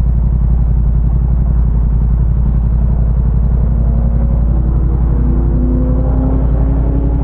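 Motorcycle engine idling steadily while stopped in traffic, a low, even rumble. From about four seconds in, faint short tones stepping up and down in pitch, like a tune, sound over it.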